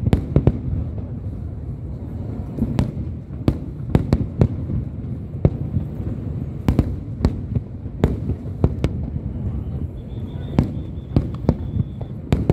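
Fireworks display: aerial shells bursting in an irregular run of sharp bangs, over a steady low rumble.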